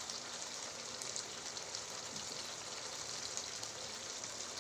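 Pepper chicken sizzling in its pan, a steady fine crackle as the dish finishes cooking.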